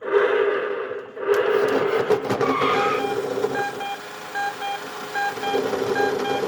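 Battery-powered toy Cadillac Escalade EXT driving its wheels in reverse: its small electric motor and plastic gearbox whir steadily, starting suddenly. From about two and a half seconds in, short repeated electronic tones from the toy's sound chip join in.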